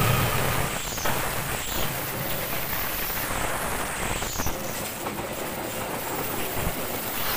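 Diesel-hauled passenger train passing close by: the locomotive's engine rumble fades about a second in, leaving the steady rushing of the carriages' wheels on the rails with a few faint knocks.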